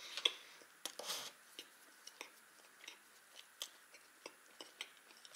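Close mouth sounds of a person chewing a soft baked bun: irregular soft clicks and smacks.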